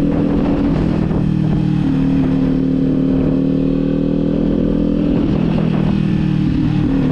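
Kawasaki Z400's parallel-twin engine running at steady riding revs, its pitch shifting a few times, with heavy low wind rumble on the microphone from strong gusts.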